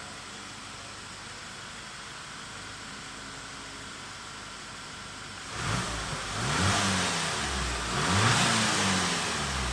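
VW Passat engine idling quietly, then revved twice about halfway through, the pitch rising and falling back each time.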